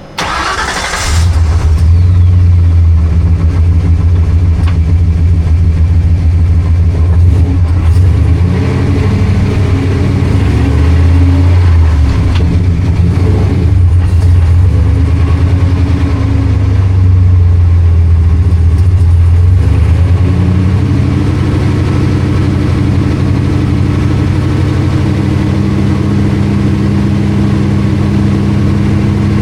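1976 Ford F-250's engine running loud on a chassis dyno's rollers, coming up to full loudness about a second in, its pitch shifting several times as it runs.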